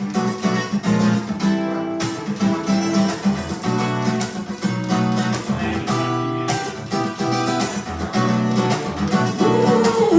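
Acoustic guitar strumming chords in a steady rhythm, an instrumental intro with no vocals. A singing voice comes in right at the end.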